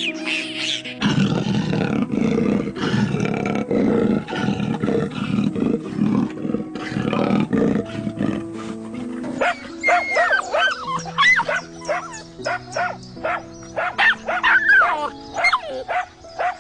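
A lion roaring repeatedly over a simple background tune, followed about halfway through by a run of quick high animal calls that glide up and down.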